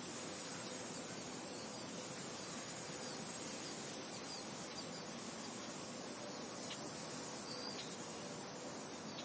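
Steady wind noise, an even hiss, with a few faint short high chirps now and then, the clearest about three-quarters of the way through.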